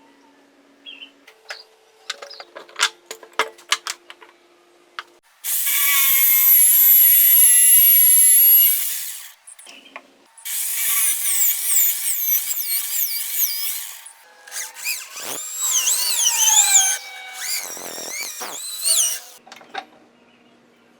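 Power drill running in three bursts of a few seconds each, its pitch wavering and sliding in the later two as the speed changes, after several seconds of clicks and knocks.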